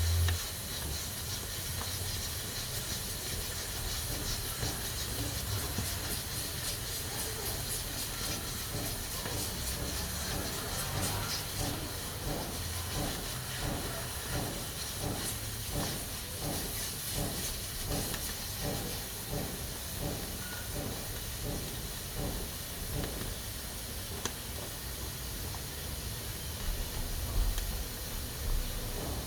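Pressure cooker releasing steam through its valve with a steady hiss. Midway it takes on a rhythmic pulsing of about two beats a second, as the weighted valve rocks.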